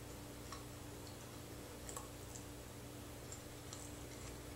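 Faint, scattered little clicks and smacks of someone eating close to the microphone, about half a dozen at irregular intervals, over a steady low hum.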